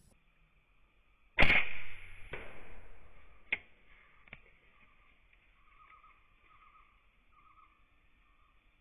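An air rifle fires once, a sharp crack about a second and a half in with a short decaying tail. A few sharp clicks or knocks follow over the next three seconds, over steady insect chirring.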